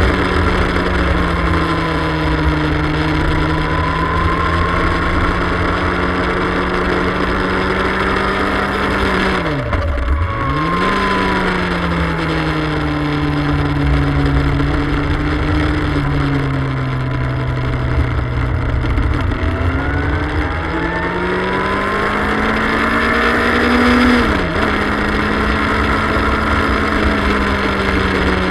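Motorcycle engine at speed on a circuit, its revs holding, easing off and climbing again through the corners, with two sharp dips in pitch, about a third of the way in and again late on, each followed by the revs rising back. Wind rushes over the onboard microphone throughout.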